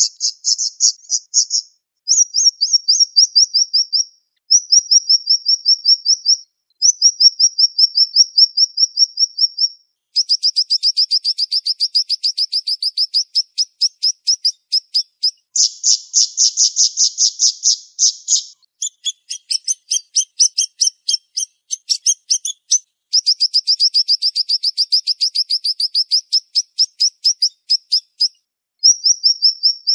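Siri-siri songbird singing high-pitched, fast trills: phrases of rapidly repeated notes, each one to three seconds long with brief pauses between, running nearly continuously through the middle.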